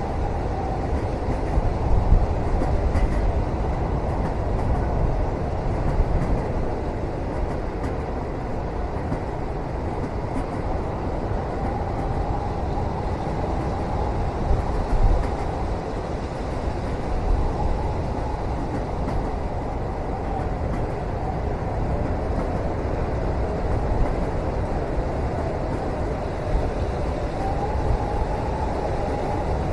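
Steady low rumble of a moving train heard from inside a passenger cabin, even throughout, with a few slightly louder bumps.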